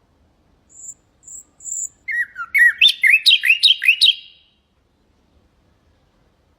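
Common nightingale singing one phrase: three thin, high piping notes, then a fast, loud run of repeated slurred notes that stops short.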